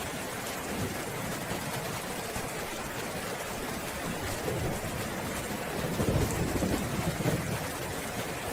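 Steady rain falling, with a low roll of thunder rumbling up about six seconds in and fading near the end.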